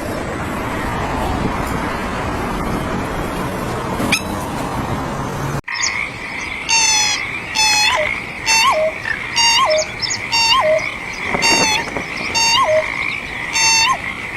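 Steady rushing noise, which cuts off abruptly about five seconds in. An animal call then repeats about once a second, each a short rasping note with a lower dipping tone, over a steady high drone.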